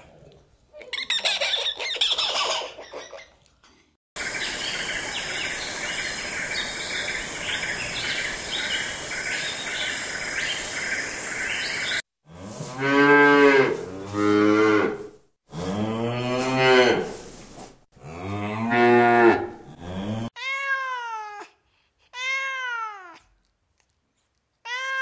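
Cattle mooing: four long moos one after another, following a steady, buzzing hiss in the first part. Near the end a cat gives several short meows.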